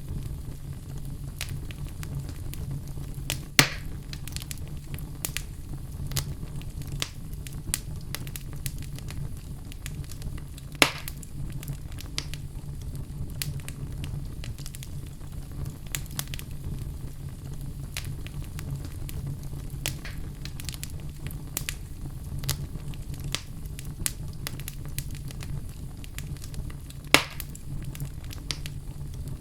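Wood fire burning in a fireplace, crackling with frequent small pops and three sharper, louder pops spread through, over a steady low hum.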